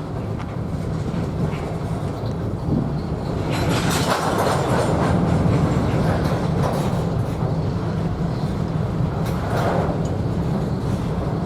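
Train rolling past: a steady low rumble with wheels clattering over the rails, growing louder from about three and a half seconds in, with repeated surges of clatter.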